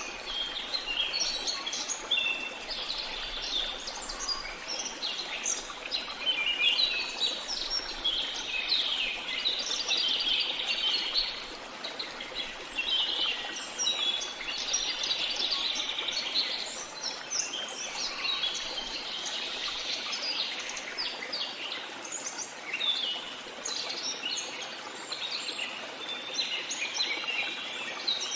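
Many birds singing and chirping together in a dense chorus of short high calls and trills, over a steady background hiss.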